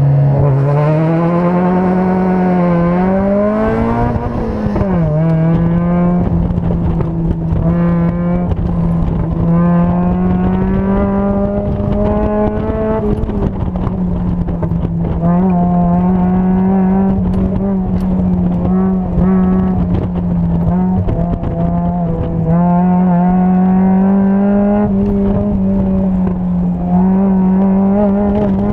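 Car engine pulling hard through an autocross run, heard from inside the open cockpit. The revs climb over the first few seconds, drop back briefly about four seconds in, then hold high with small rises and dips through the turns.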